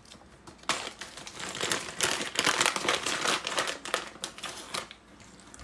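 A crinkly snack packet of nuts being rustled and handled, a busy crackling that starts about a second in, is loudest in the middle and dies away near the end.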